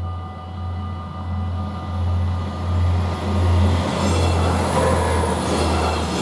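Arriva Stadler GTW diesel multiple unit passing over a level crossing, its engine rumbling and its wheels rushing and clattering on the rails. The noise grows loud about four seconds in as the train goes by. The crossing's warning bells ring steadily throughout.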